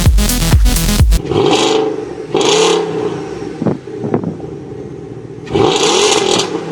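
BMW X5 exhaust as the engine is revved while parked: several short revs with the pitch swinging up and back down, two quick blips in between, and a longer rev near the end. An electronic dance track with a heavy beat plays for about the first second, then cuts off.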